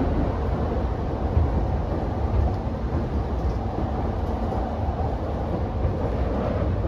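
Steady low rumble of a JR E233-series commuter train running, heard from inside the carriage.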